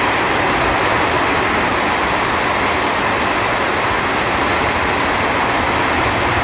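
Heavy rain pouring down in a loud, steady, unbroken rush.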